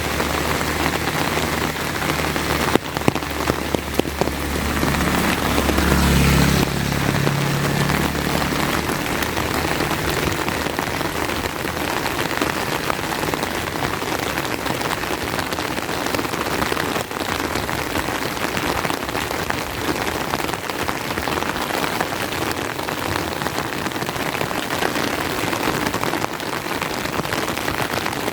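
Steady rain falling. A low hum swells about five seconds in and fades out by about ten seconds, and a few sharp knocks come around three to four seconds in.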